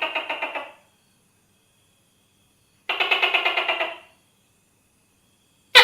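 Tokay gecko calling: two rattling trills of about a dozen pulses a second, each lasting about a second, then a sharp call near the end that drops in pitch.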